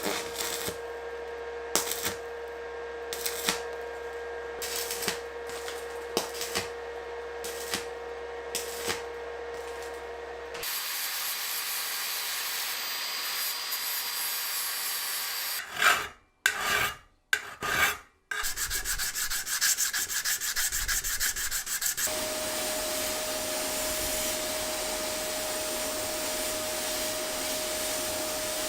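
Abrasive rubbing and scraping, like sanding or filing, in several short takes that start and stop abruptly, with a steady hum under the first and last parts.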